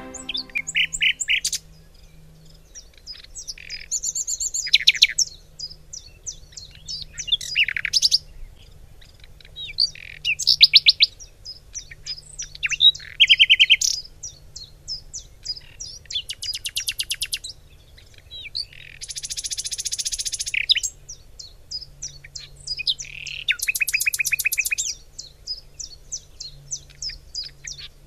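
Songbirds chirping and trilling, many short high calls in quick series, overlapping throughout.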